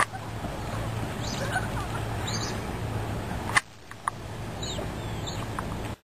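Birds chirping, a few short high calls over a steady outdoor background hiss with a low hum. The sound drops out briefly about halfway through.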